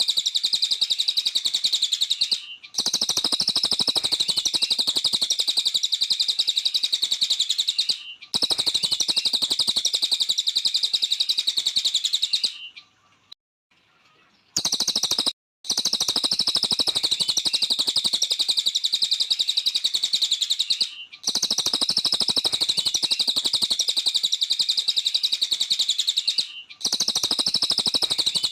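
A cililin, a small songbird, singing hard: a dense, rapid, high-pitched chattering song that goes on for several seconds at a time, with short breaks and one longer pause about halfway.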